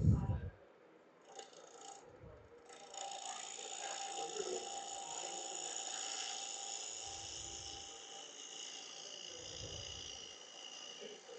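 Wood lathe running with a turning tool cutting the spinning wood of a vase blank: a steady, high-pitched whir that sets in about three seconds in, with a few dull low thumps.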